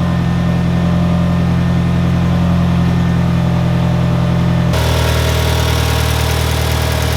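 1991 Eagle Talon's turbocharged 4G63T four-cylinder idling steadily on a cold start, just after a new fuel pump was fitted. The tone of the idle changes abruptly about two-thirds of the way through.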